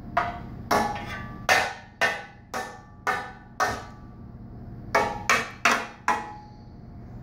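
Tonka toy truck being banged repeatedly: about eleven sharp knocks, each with a short ring, in an uneven rhythm, with a pause of about a second partway through before a quick cluster of four.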